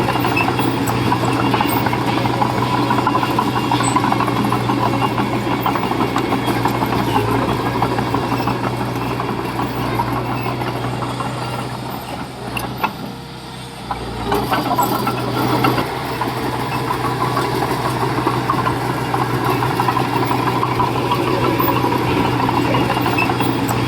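Diesel engine of heavy construction machinery running steadily. It dips in level for a couple of seconds about halfway through, then picks up again.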